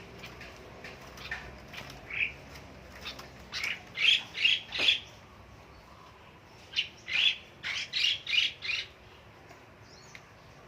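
A bird giving two runs of short, loud calls: about four calls in quick succession a few seconds in, then about six more after a pause of roughly two seconds.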